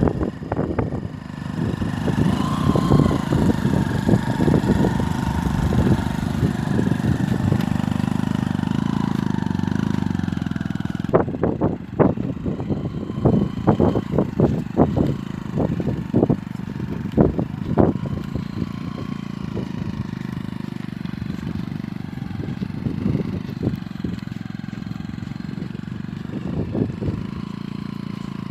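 Engine of a motorcycle-based tractor running with a steady drone. Partway through, the sound changes to a quieter run with many irregular clattering knocks.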